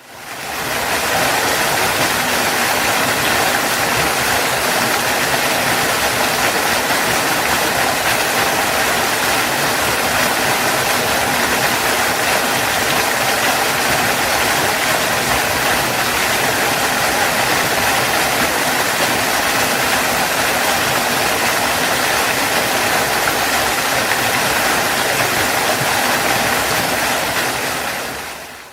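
Waterfall rushing: a steady, full roar of falling water that fades in at the start and fades out near the end.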